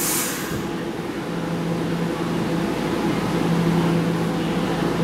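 Keihan 2600-series electric train standing at a platform, its onboard equipment giving a steady hum, with a short hiss right at the start.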